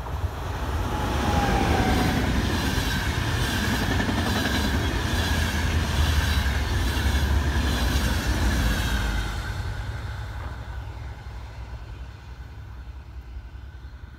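A train passing close by on the line. It swells in, runs loud for about seven seconds with a steady high whine over an even clatter of wheels on the rails, then fades away.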